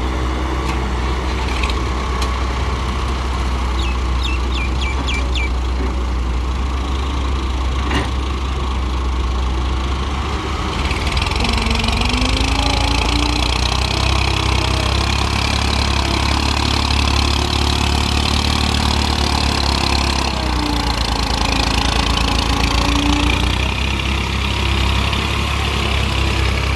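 Diesel engine of a Hyundai Robex 1300W wheeled excavator running steadily at work. A higher hissing, whining layer from the machine joins about eleven seconds in and holds until near the end.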